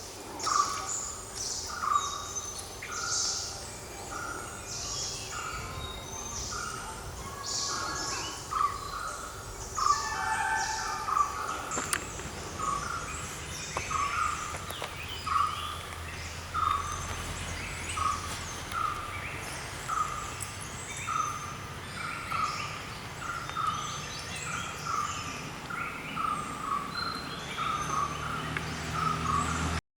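Forest ambience of bird calls: a short call note repeated steadily, about once every 0.7 s and a little faster near the end, with higher chirps over it in the first half.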